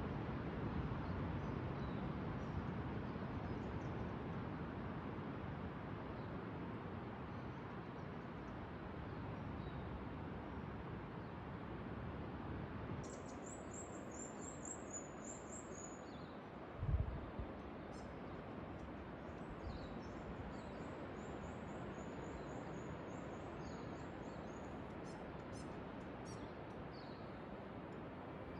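Steady rushing background noise with a bird singing twice, each time a quick run of high, repeated notes. There is one short low thump about halfway through.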